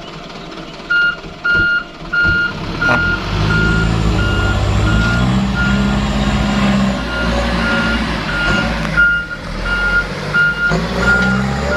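Truck reversing alarm beeping steadily, about two high beeps a second, as the truck backs up. Its engine runs beneath it, growing louder from about three seconds in and rising in pitch midway.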